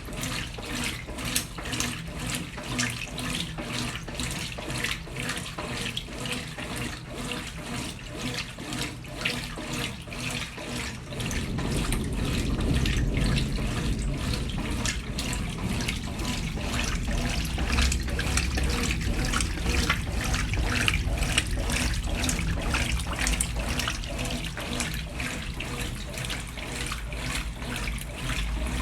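Brastemp Ative! 11 kg washing machine running with water rushing into its tub. About eleven seconds in, a low rumble joins the water and the sound grows louder.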